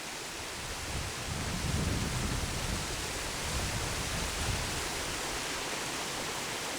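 Waterfall rushing steadily: an even hiss of falling water, with low rumbles swelling and fading between about one and five seconds in.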